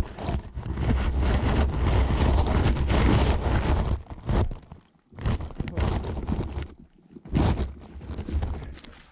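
Wind buffeting the microphone, loud for the first four seconds, then dropping away and coming back in shorter gusts.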